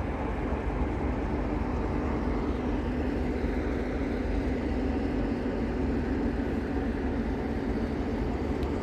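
A train running through the station: a steady mechanical rumble with a low hum that swells slightly around the middle.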